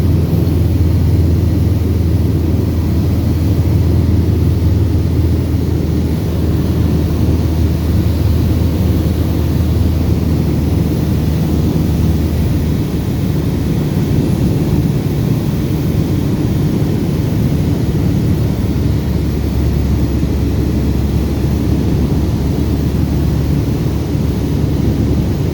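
Cessna 172RG's four-cylinder Lycoming engine and propeller running steadily at power, a loud, even drone. The pitch drops slightly about halfway through.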